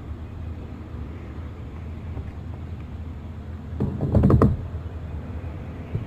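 A quick cluster of knocks and clatter about four seconds in, over a steady low rumble on the microphone. It sounds like gear knocking against the kayak.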